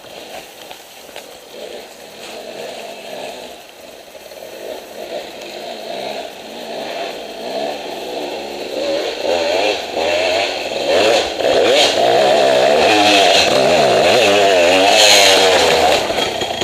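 Dirt bike engine revving hard on a steep hill climb, its pitch rising and falling with the throttle. It starts faint and grows much louder over the first ten seconds or so as the bike comes closer, then stays loud.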